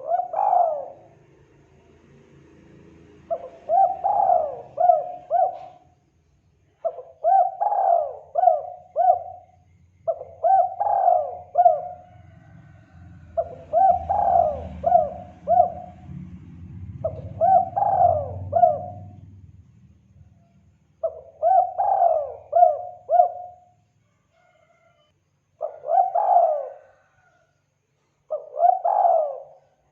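Spotted dove (tekukur) cooing, played as a lure call: a short phrase of several coos repeated about every three seconds, around ten times. A faint low rumble runs underneath for the first two-thirds.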